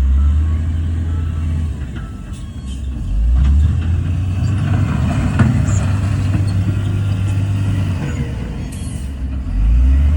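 Heavy earthmoving machine's diesel engine running under load, revving up about a third of the way in, easing off later and revving up again near the end.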